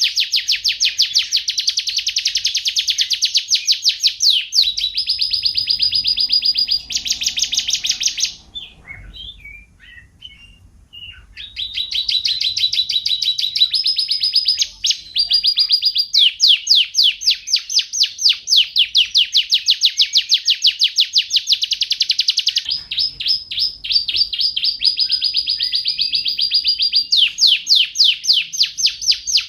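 Domestic canary singing: fast rolling trills of repeated high notes, about eight a second, alternating with held whistled notes. It breaks off for a few seconds about a third of the way in, with only a few soft chirps, then resumes.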